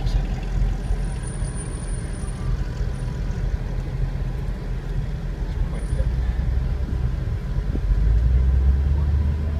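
Car engine and road rumble heard from inside the cabin while driving slowly, a steady low drone that swells louder about eight seconds in.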